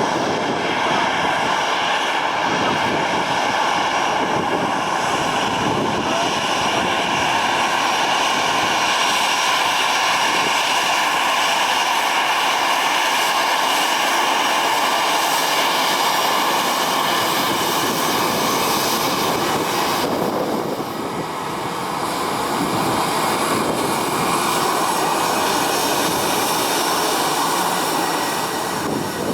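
Airbus A320's CFM56 jet engines running close by: a steady loud rush with several high whining tones over it. The tones and the level drop briefly about twenty seconds in, then return.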